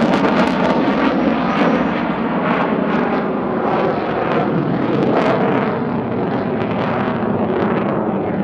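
Saab JAS 39 Gripen C fighter's Volvo RM12 afterburning turbofan, loud and continuous, with a rapid crackle through the jet noise. The sharpest, highest part of the sound fades near the end.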